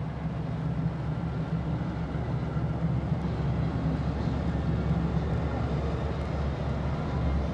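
A large engine running with a steady low drone, without a break.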